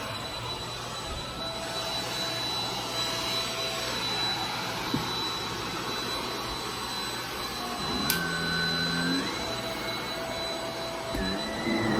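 Shark Rocket stick vacuum running: a steady rush of air with a thin, high, steady whine. There is a click about eight seconds in, and a higher tone rises shortly after.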